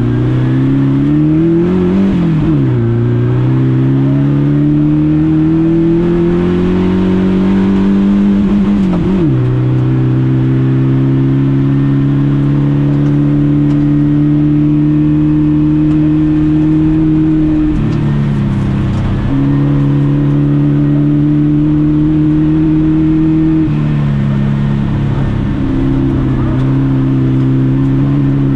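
Volkswagen Beetle rally car's engine heard from inside the cabin, accelerating hard and shifting up twice in the first ten seconds, each shift dropping the revs sharply. It then holds high, steady revs, with a brief lift off the throttle about eighteen seconds in and a small drop in revs near the end.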